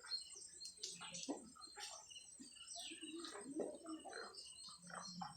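Faint background birdsong: short scattered chirps with some cooing, mixed with a few soft clicks.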